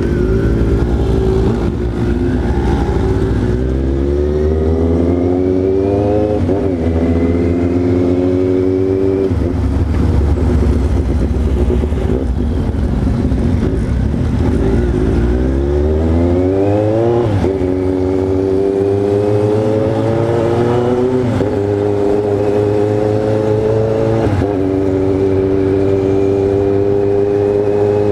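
Yamaha XJ6's 600 cc inline-four engine pulling hard through the gears, its pitch climbing and then dropping sharply at each upshift, several times over.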